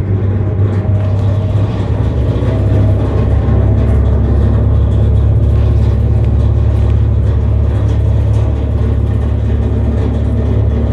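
Tractor engine running steadily with a deep drone, heard from inside the enclosed passenger trailer it is towing.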